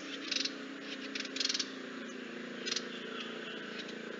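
Recorded call of a dark-fronted babbler: a few short, dry "crick" notes spaced irregularly over a steady low hum. It is a slight, strange call that hardly sounds like a bird call.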